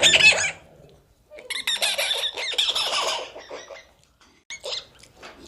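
High-pitched animal calls: a short burst at the start, a run of squawk-like calls that bend in pitch for about two seconds, then a couple of brief calls near the end.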